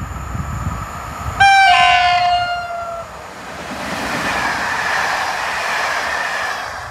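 EP07 electric locomotive hauling a passenger train through the station at speed: about a second and a half in it sounds its horn, a loud chord that slides slightly down in pitch for about a second and a half. Then the locomotive and coaches rush past close by, the rolling noise swelling before it cuts off suddenly near the end.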